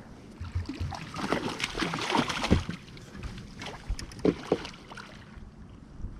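Water splashing and sloshing in irregular bursts, with scattered knocks, as a hooked snook is brought to the boat and landed; the splashing is busiest in the first half and dies down near the end.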